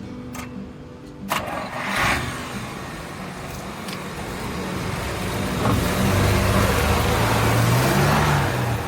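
The 1948 Chrysler Windsor's Spitfire six-cylinder flathead engine: a clunk, then the engine starts about two seconds in and runs, getting louder over the last few seconds.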